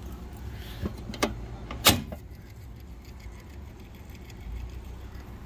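Walk-in freezer refrigeration system running with a steady low hum, the compressor newly restarted after a leak repair and recharge. Three sharp clicks or knocks come between about one and two seconds in, the last one the loudest.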